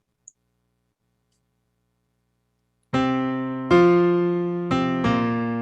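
Near silence, then about three seconds in a piano starts the postlude: slow sustained chords, a new chord struck roughly every second and left to ring.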